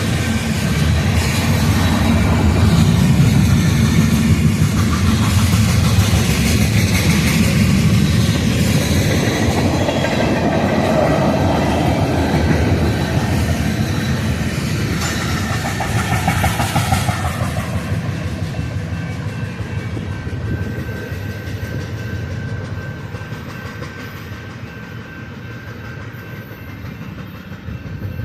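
Freight cars of a manifest train rolling past, wheels clicking and rumbling over the rail joints, growing quieter in the last third.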